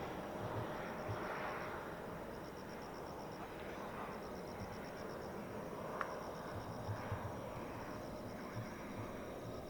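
Insect chirping high and fast, about nine pulses a second, in stretches with short gaps, over a steady outdoor noise haze in which the rumble of a departed jet is fading away.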